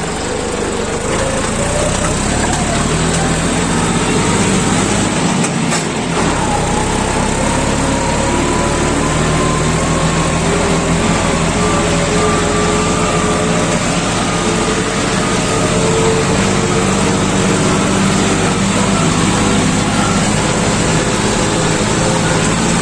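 Sugarcane harvester's diesel engine and machinery running steadily. About six seconds in there is a brief knock, after which a whine slowly climbs in pitch.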